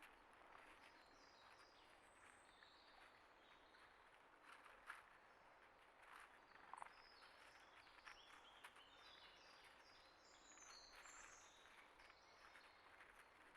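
Faint small-bird chirps and twitters, coming thickest a little over two thirds of the way in, with scattered soft clicks and rustles over quiet outdoor background.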